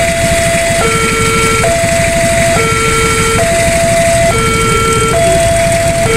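Railway level-crossing warning alarm sounding a steady two-tone signal, a higher and a lower note alternating a little under once a second, warning that a train is approaching or passing. A loud low rumble runs underneath.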